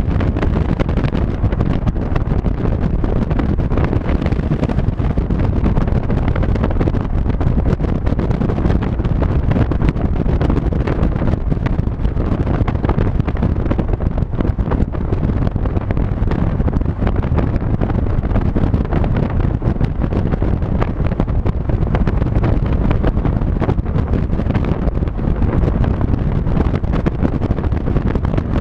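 A car driving at steady speed, with loud wind buffeting the microphone over the low rumble of the drive. The rumble holds steady, with no gear changes or revving.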